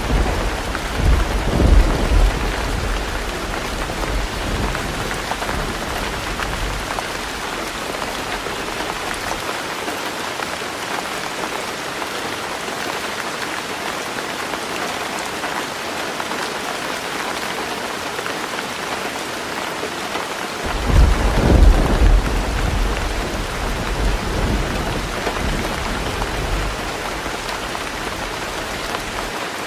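Heavy rain falling steadily on a roof, with thunder: a rumble dying away in the first seconds, and another breaking out about two-thirds of the way through and rolling off over several seconds.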